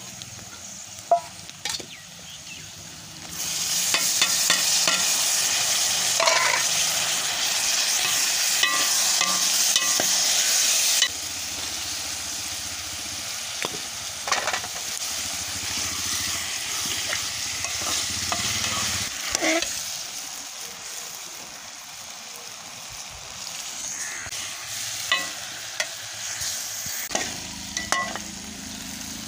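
Onions, spices and vegetables frying in hot oil in an aluminium karahi, sizzling while a steel ladle stirs them and clinks against the pot. The sizzle turns loud about three seconds in and drops off suddenly around a third of the way through, then carries on quieter with scattered ladle clicks.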